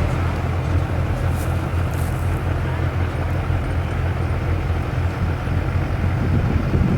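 Mega truck engine running steadily, low and deep, holding an even pitch with no revving.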